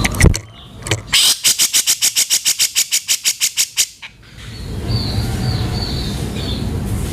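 Grey-cheeked bulbul (cucak jenggot) giving its harsh, rough rattling call: a couple of short harsh notes, then a fast run of about seven rasping notes a second for nearly three seconds. The call cuts off suddenly and a steady rumbling background with faint high chirps follows.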